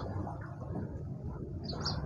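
Small birds at a feeder giving short high chirps, one at the start and a pair near the end, over a steady low rumble.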